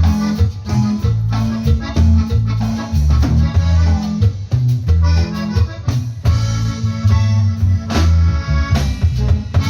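Norteño band playing live, with an accordion lead over a strong, stepping bass line.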